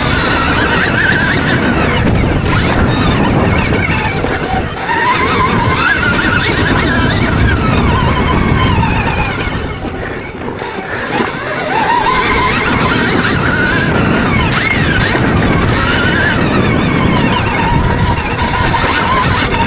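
Stark Varg electric motocross bike's motor whining, its pitch rising and falling over and over as the throttle opens and closes, over a constant rough noise.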